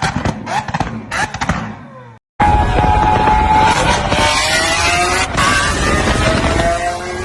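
Tuned car engine revved in several quick blips, each a short rising whine, with sharp crackling pops between them. After a brief cut, a loud continuous sound with several held tones that slowly shift in pitch.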